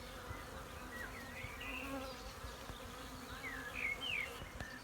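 Many honeybees buzzing in a steady hum around a hive: scout bees checking out the hive ahead of a swarm.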